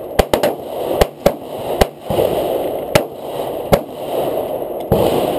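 Handgun shots fired at irregular intervals, about nine in five seconds, with a quick run of three near the start and the rest spaced out.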